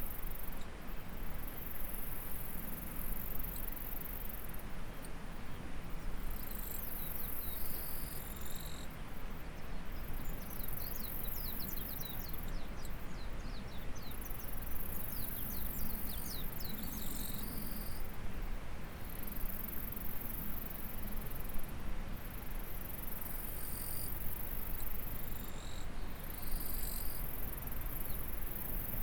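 Insects shrilling very high in repeated bouts of a few seconds each, stopping briefly between them, over the steady rush of a stream. A rapid run of quick high chirps comes through in the middle.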